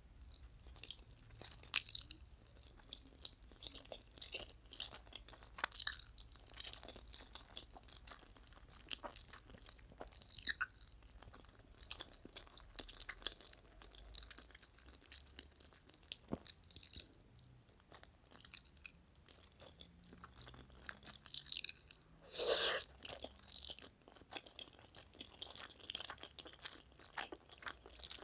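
Close-miked chewing and slurping of spicy instant noodles: a dense run of wet mouth clicks and smacks, with one longer, louder sound about three-quarters of the way through.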